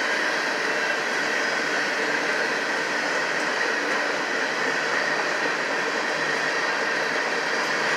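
Covered hopper cars of a grain freight train rolling past, a steady, unbroken noise of steel wheels running on the rails.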